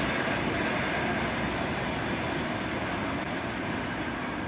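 Passenger coaches rolling away along the track: a steady wheel-on-rail running noise that slowly fades as the train recedes.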